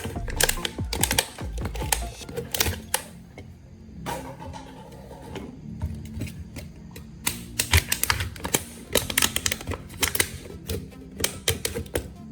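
Rapid, irregular clicks and taps of hard objects over background music, densest at the start and again past the middle.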